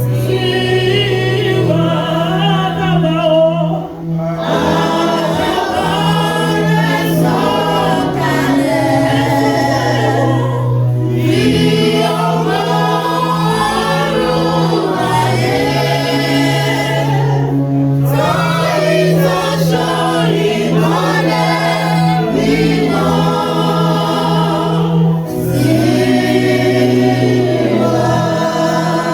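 Church choir singing a gospel hymn over held low bass notes that change pitch every few seconds, with short breaks between phrases.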